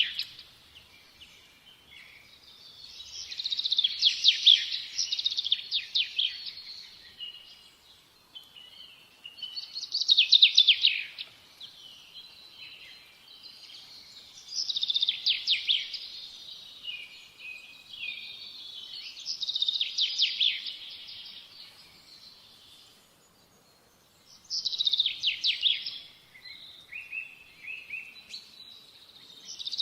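A songbird singing: bursts of rapid, high trills and chirps, each about two to three seconds long, repeated roughly every five seconds with short pauses in between.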